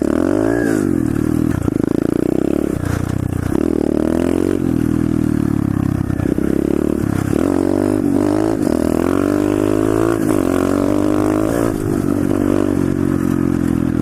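SSR 125cc pit bike's single-cylinder four-stroke engine revving up and down repeatedly as it is ridden, the pitch rising and falling many times.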